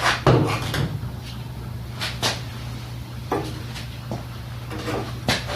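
A string of short knocks and clicks from tools and parts being handled while working on a mower engine, several spread over a few seconds, over a steady low hum.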